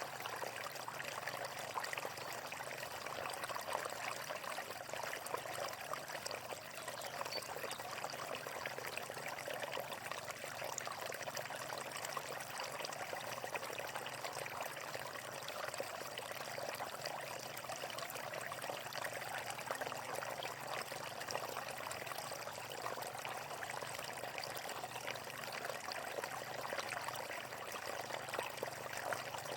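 Running water flowing steadily, an even rush with fine splashing and no change.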